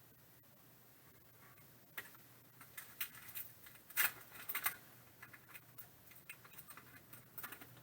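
Trading cards being handled and flicked through: a run of light clicks and rustles that starts about two seconds in, loudest about four seconds in.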